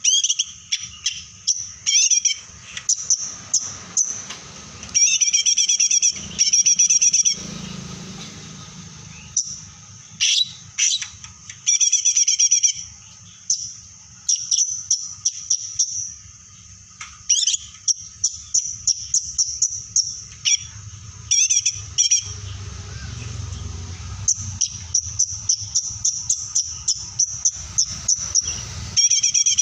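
A songbird in full, vigorous song: loud, high-pitched chirps and fast trills in bursts of about a second, repeated with short pauses between them.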